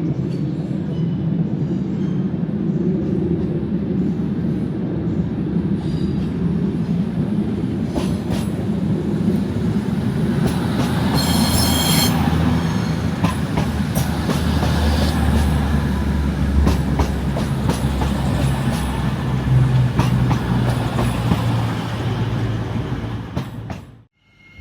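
A passenger train moving through a station, with a steady low rumble, a few sharp clicks and a short high wheel squeal about halfway through. The sound cuts off abruptly just before the end.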